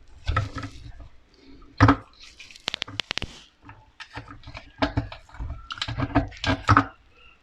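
Irregular knocks and clatter of hard objects being handled, with a quick run of sharp clicks about midway through.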